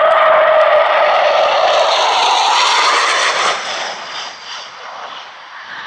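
Jet aircraft making a low display pass: a loud engine whine and rush with a strong steady tone that bends upward in pitch about two and a half seconds in, then fades over the last couple of seconds as the aircraft moves away.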